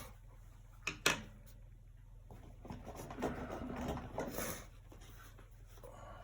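Acrylic paint being worked across a canvas: a scratchy rubbing stroke lasting about two seconds, after two sharp clicks about a second in.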